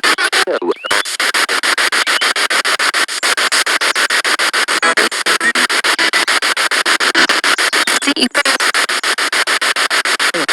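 Spirit box radio sweeping rapidly through stations: loud static chopped into a fast, even stutter, with brief snatches of broadcast sound between the hiss.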